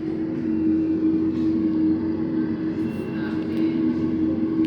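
Engine of earth-digging machinery running steadily at a constant speed, a loud, even hum.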